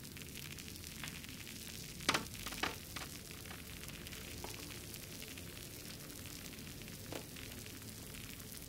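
Wood fire burning in a fireplace, crackling steadily over a low rumble and hiss. Two loud pops come close together about two seconds in, and a smaller one near the end.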